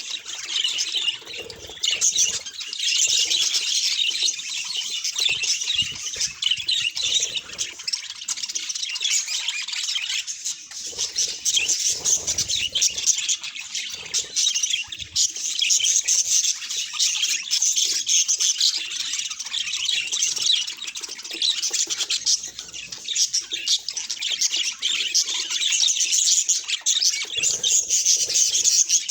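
Budgerigars chattering and chirping continuously, a dense, rapid warble of many short high notes.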